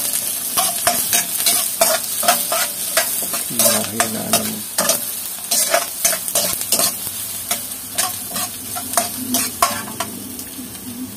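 Onions and garlic sizzling in hot oil in a wok while a metal ladle stirs and scrapes them. The ladle's strokes clink against the pan over and over.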